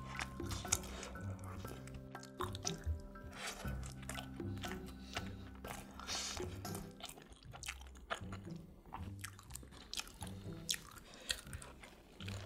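Close-miked chewing of a pizza-filled steamed bun, with many small crunches throughout, over a quiet background music bed.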